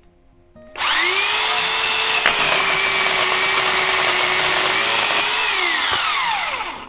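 DEKOPRO 8-amp corded electric pole chainsaw: the motor spins up about a second in, runs at a steady pitch for several seconds, then winds down with falling pitch near the end.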